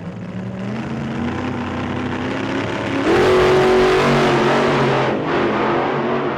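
Race car engine revving and accelerating, with pitch glides, getting suddenly louder about three seconds in and easing off near the end.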